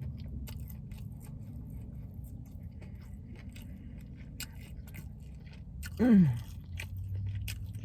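Close-up chewing and biting of crispy fried chicken, with many small wet mouth clicks and crunches. About six seconds in there is a short falling vocal groan, the loudest sound in the stretch.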